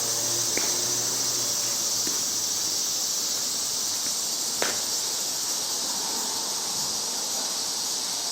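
Insects trilling steadily in a high-pitched drone, with two sharp knocks about four seconds apart.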